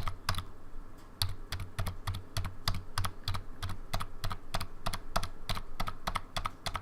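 A known good key on a Logitech K360 keyboard, pressed over and over close to the microphone: a crisp click on each press, twice near the start, then after a short pause a steady run of about three to four presses a second. This is how a healthy, clicky key on this keyboard should sound, as opposed to its sticky keys.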